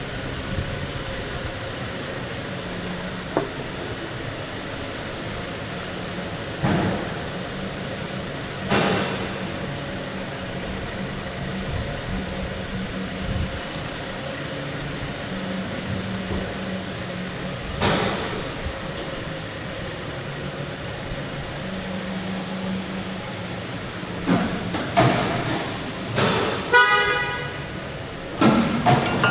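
Workshop sounds during brake work: a steady background hum that comes and goes, with a few scattered knocks of metal parts or tools, then a run of clanks near the end, one of them ringing like struck metal.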